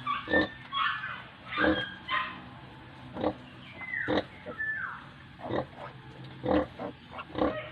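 A nursing sow grunting in short, repeated pulses, about one a second, while the piglets suckle. Several high piglet squeals falling in pitch come around the middle.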